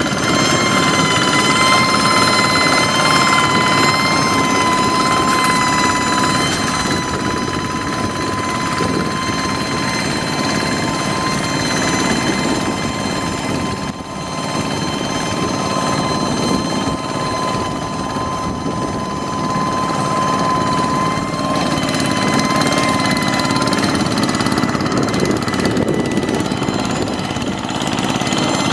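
Hand tractor's engine running steadily under load, with a steady high whine over the engine noise that fades out about three-quarters of the way through.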